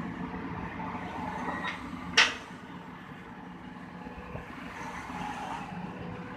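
Heavy diesel engine running steadily at idle, with a single short, sharp burst of noise about two seconds in.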